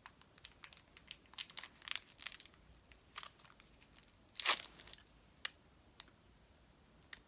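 Candy wrapper crinkling and tearing as a piece of soft mango fruit candy is unwrapped by hand: scattered crackles, with one louder rip about four and a half seconds in.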